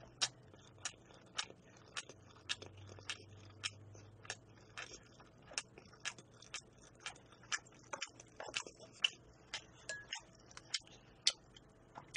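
Close-miked chewing of a mouthful of raw-beef (yukhoe) sushi with the mouth closed: faint mouth clicks about twice a second, turning irregular near the end.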